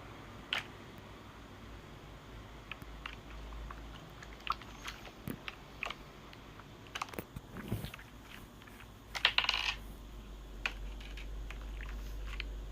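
Scattered light clicks and taps of small hard objects, with a short, louder rattling cluster about nine seconds in.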